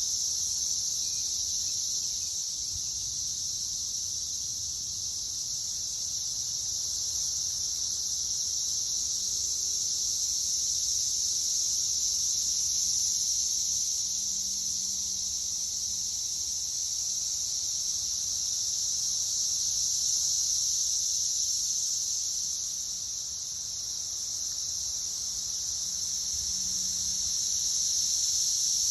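Chorus of many cicadas: a steady, high-pitched shrill drone that slowly swells and eases without a break.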